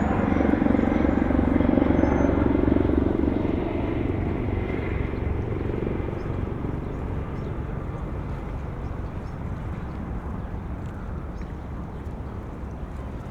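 Low engine rumble of a passing motor, loudest at the start and fading steadily away.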